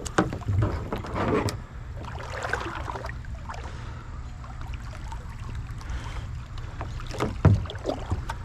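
Knocks and rustling of handling in a kayak over a steady low rumble, with a cluster of knocks near the start and another about seven seconds in.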